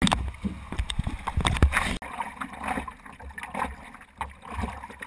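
Sea water splashing and sloshing in the surf, with irregular knocks and a low rumble of wind or water on the microphone.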